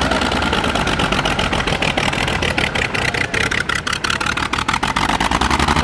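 Brass-era car engine running steadily at idle, firing in a rapid, even pulse.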